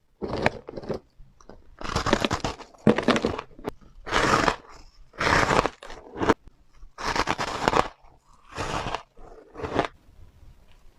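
Close-up crunching of a person biting and chewing refrozen powdery ice, a soft crunch about once a second.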